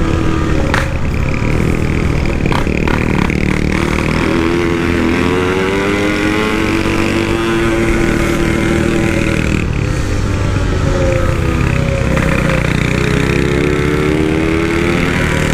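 Yamaha RX-King two-stroke single-cylinder motorcycle engine under way, fitted with a PWL carburettor and a standard-style 'belek' exhaust, which the rider calls really loud. The engine note rises as it accelerates, falls away around the middle, and climbs again near the end.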